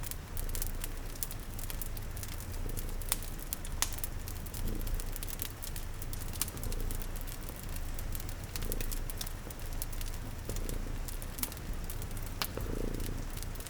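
Layered ambience of a cat purring, a wood fire crackling with scattered sharp pops, and rain pattering.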